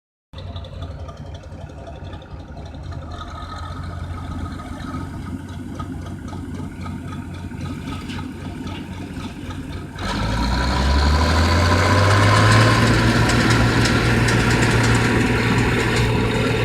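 Bizon Z056 combine harvester's diesel engine idling steadily. About ten seconds in it turns suddenly louder and revs up over a second or two to a higher steady speed.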